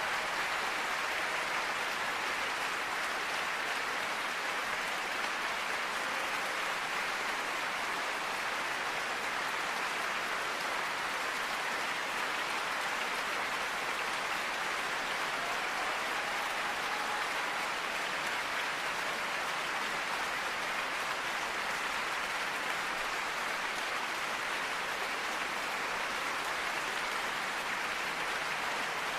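Steady, even hiss of water, unchanging in level throughout.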